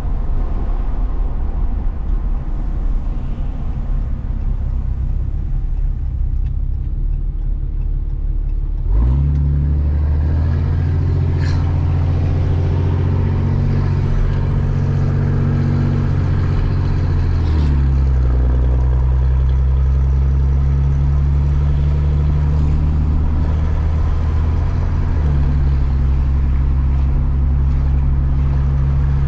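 A truck's engine and road noise heard from inside the cab while driving. About nine seconds in the engine note becomes strong and steady; its pitch drops suddenly a little past halfway, as with a gear change, and rises again near the end.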